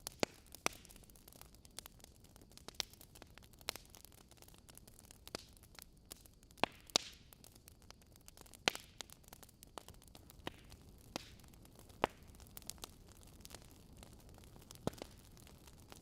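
Log fire in a fireplace crackling: irregular sharp pops and snaps, a few louder ones among many small ticks, over a faint steady hiss.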